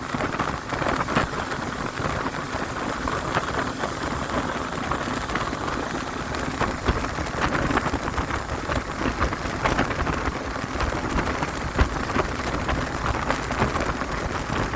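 Speed boat under way at speed: a steady, loud rush of engine, wind and water noise, sprinkled with many short crackles and splashes.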